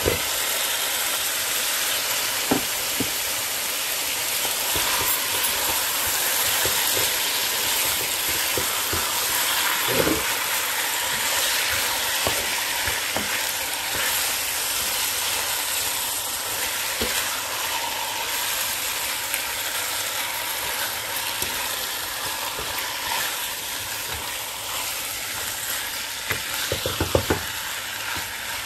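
Raw chicken pieces sizzling steadily in hot oil with curry paste and onion, the start of frying the chicken for a curry. Now and then a spoon knocks and scrapes against the pan as the chicken is stirred.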